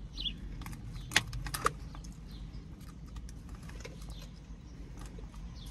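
Close-up chewing and crunching of salad with hard croutons, with a quick cluster of sharp clicks about a second in, over a steady low hum.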